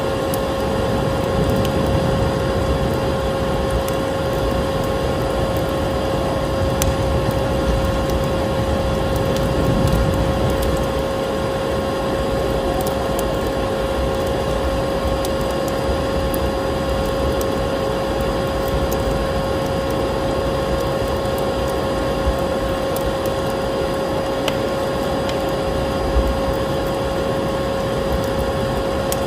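Vacuum cleaner running with a steady whine, mixed with the crackle and occasional small pops of a wood fire in a fireplace.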